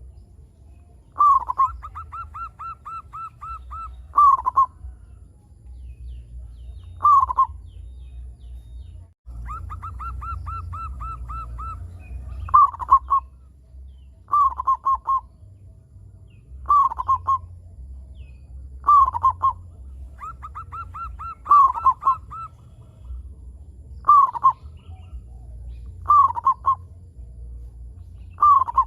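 Zebra dove (perkutut) singing: repeated cooing phrases about every two seconds, some opening with a quick run of short staccato notes before a longer rolled coo. A steady low hum sits underneath.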